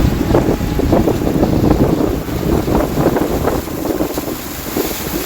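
Floodwater churning and splashing, with wind buffeting the microphone.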